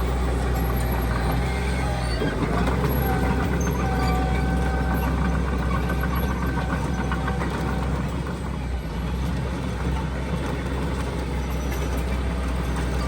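Heavy diesel earthmoving machinery running steadily under load, with a faint high whine for a few seconds in the middle.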